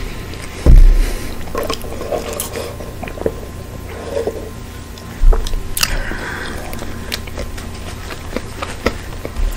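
Close-miked chewing and wet mouth clicks from eating a chicken burger, with a sip through a straw around the middle. Two heavy low thumps come about a second in and about halfway through.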